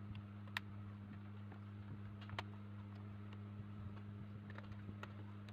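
Faint scattered clicks from handling and opening a small plastic Bluetooth speaker casing, the clearest about half a second in and again near the middle, over a low steady hum.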